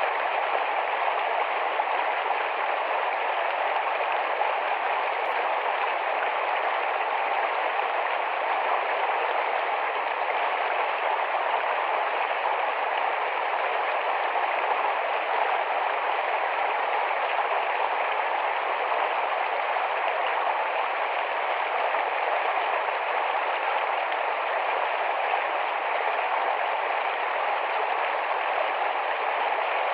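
Rapid shallow forest stream flowing: a steady, unbroken rush of water.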